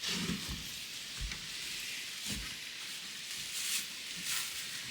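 Faint rustling and handling noise with a few soft, dull knocks about a second apart.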